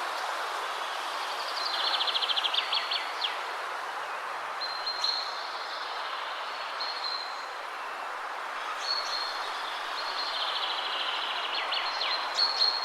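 Steady wind rushing through trees, with small birds singing over it: thin high whistled notes and a fast trill about two seconds in and again near the end.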